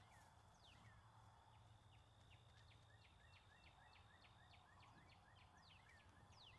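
Near silence with faint birdsong: a few high whistles sliding down in pitch near the start and again near the end, and between them a quick, even run of short high notes, about four a second.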